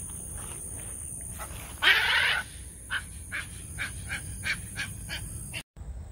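Waterbirds calling: one loud harsh squawk about two seconds in, then a run of about a dozen short calls at four or five a second, cut off suddenly near the end.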